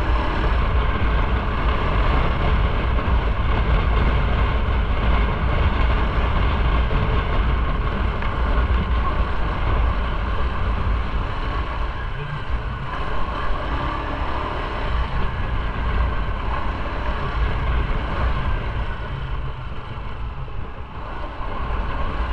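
Motorcycle under way: a steady engine drone under heavy wind rumble on the microphone.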